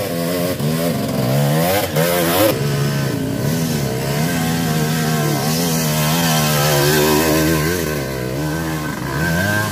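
Off-road dirt bike engine revving up and down under constant throttle changes, its pitch rising and falling every second or so, as on a slippery trail climb.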